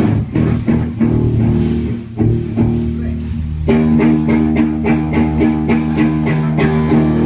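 Loud live band playing electric guitar over bass guitar, starting abruptly with picked notes and filling out into held chords about three and a half seconds in.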